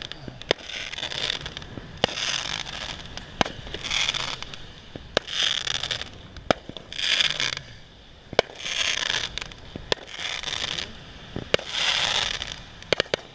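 Fireworks going off in a steady series: about nine sharp cracks, roughly one every second and a half, each followed by about a second of crackling.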